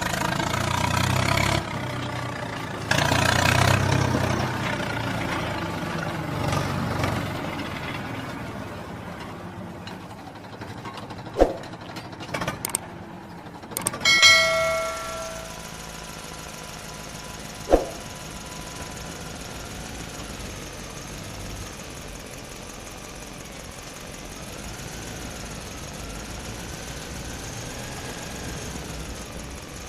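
An engine running, louder for the first several seconds and then steadier and quieter, with a few sharp clicks and a short beep about halfway through.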